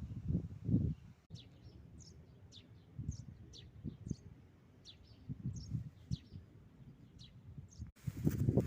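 Small songbirds chirping: short, high, falling notes repeated every half second or so. A low rumble sits under the opening second and returns, louder, near the end.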